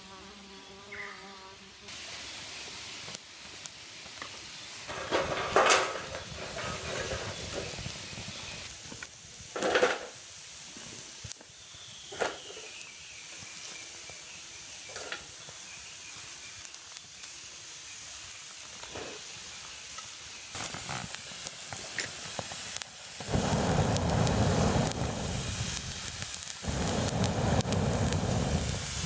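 Hissing and crackling with scattered sharp pops, typical of a small campfire burning. Two loud stretches of rushing noise come near the end.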